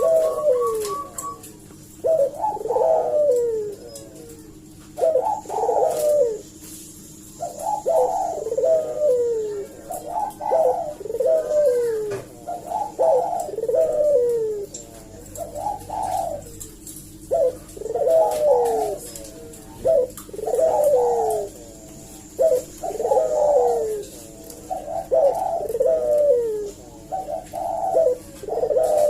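Ringneck dove (burung puter) cooing over and over in the rapid, nonstop 'gacor' style, with phrases of falling coos coming every second or two and only short pauses. A steady low hum runs underneath.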